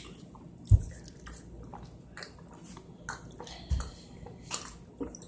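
Quiet handling noise: a soft thump about a second in and another near four seconds, among scattered faint clicks.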